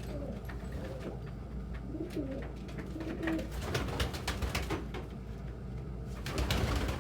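Domestic pigeons cooing, low, rolling coos coming and going throughout, with scattered light clicks and taps.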